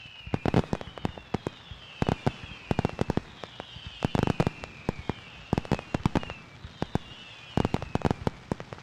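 Fireworks going off in a rapid series. Each shot is a whistle that falls in pitch, followed by a cluster of sharp bangs and cracks, repeating about every second and a half.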